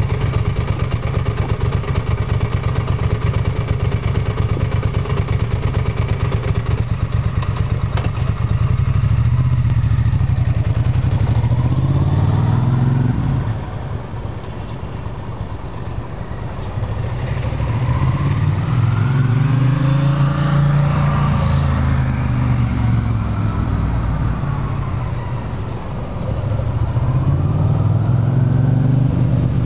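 Ducati ST3's 90-degree V-twin engine breathing through a Termignoni slip-on exhaust, running evenly at first and then revved up and back down three times.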